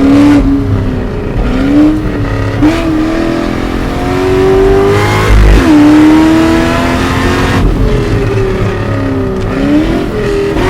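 2013 Cadillac CTS-V's supercharged LSA V8, tuned to 650 hp, driven hard. It revs up under full throttle and falls back sharply several times, as on shifts and lifts between corners.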